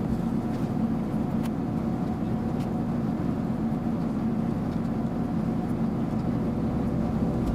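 Steady drone of an Airbus A380 in flight, an even rushing noise with a low hum that stays level.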